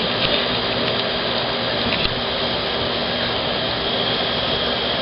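Ground fountain firework spraying sparks: a steady hiss, with faint crackles in it.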